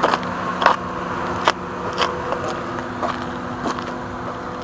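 Car engine idling with a steady low hum, while footsteps on pavement tap about every half second to second.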